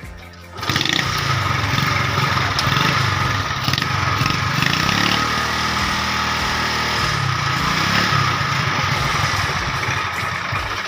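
Honda CD70 motorcycle's small single-cylinder four-stroke engine starting less than a second in and running, revved up and down about three times. No brake-shoe scraping is heard: the brake-shoe noise has been cured.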